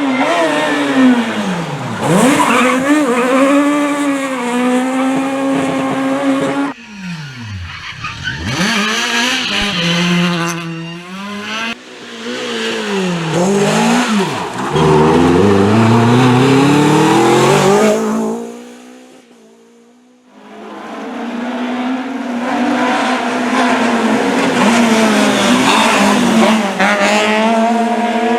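Rally cars driven flat out, one after another: engines revving high and dropping through quick gear changes, with tyre squeal. There is a short lull about two-thirds of the way through before the next car arrives.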